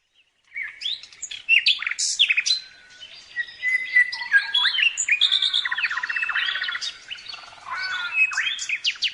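Songbirds singing: a busy run of quick chirps, rapid trills and sliding whistled notes that starts about half a second in.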